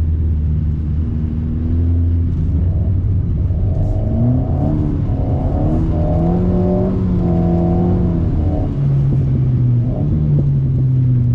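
Alpine A110's turbocharged four-cylinder engine heard from inside the car through a BDA Racing Track Evo stainless exhaust. It runs at steady low revs, then climbs about four seconds in and holds high, and falls back sharply about nine seconds in.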